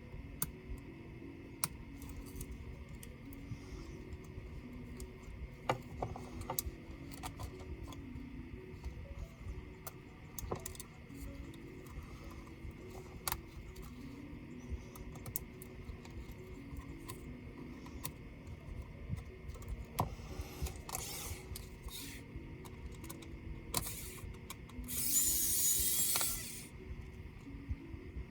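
Scattered small clicks and taps of a laptop's plastic and metal parts and tools being handled during disassembly, with a short hiss lasting about a second near the end.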